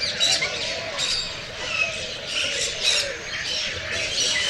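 Many birds calling at once: a busy chorus of short chirps with louder squawks standing out, about a quarter-second, one second and three seconds in.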